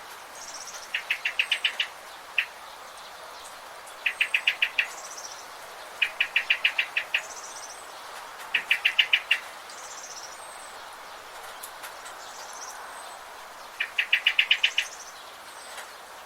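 Birds calling: one bird repeats a quick stuttering series of about six to eight sharp notes every few seconds, with softer, higher chirps from other birds between them, over a steady faint background hiss.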